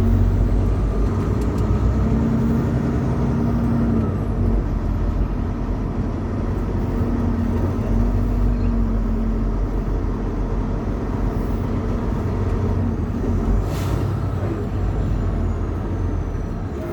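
Semi-truck on the road: a steady low engine drone with road rumble.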